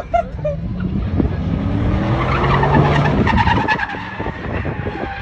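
A truck doing a burnout: its engine revs hard, rising in pitch for a couple of seconds, while the spinning rear tires squeal and skid on the pavement.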